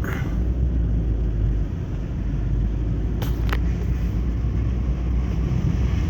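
Strong blizzard wind rumbling steadily, buffeting the microphone, with two short knocks about three seconds in.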